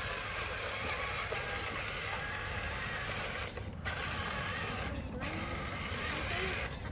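Huina 1573 radio-controlled toy dump truck's electric motor and plastic gears whirring steadily as it runs, with a couple of brief pauses.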